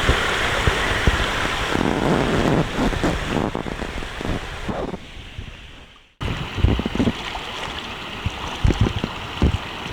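Steady outdoor rushing noise, with wind buffeting the microphone in low thumps. It fades down over the first six seconds and drops out abruptly, then comes back quieter with scattered thumps.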